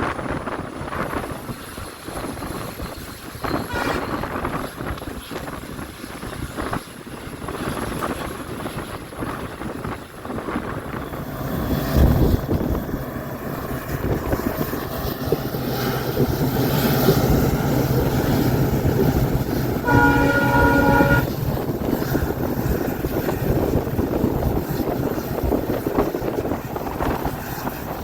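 Diesel-hauled passenger train running on the track, its rumble growing louder about twelve seconds in with a steady low hum. About two-thirds of the way through, the WDP4B diesel locomotive's horn sounds once, briefly.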